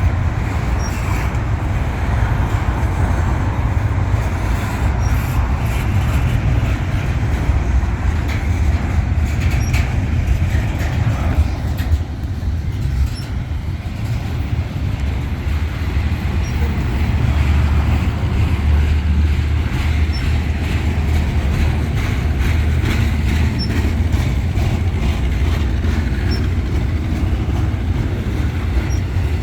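Freight train rolling past: a steady, loud low rumble of railcars and wheels on the rails, with faint wheel squeal.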